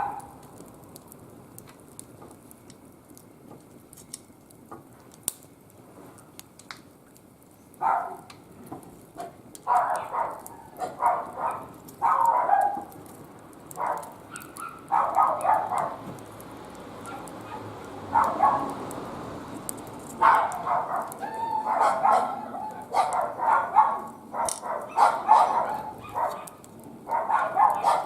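A dog barking in repeated bouts of short barks, once at the start and then on and off from about eight seconds in, over faint crackling of a wood fire.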